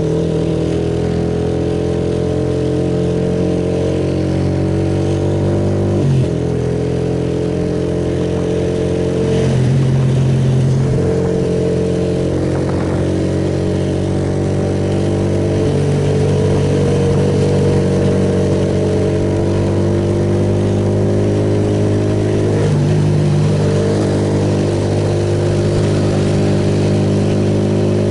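Suzuki Yes single-cylinder motorcycle engine running steadily on the move, its pitch shifting a few times with the throttle, over a constant rush of wind and wet-road noise.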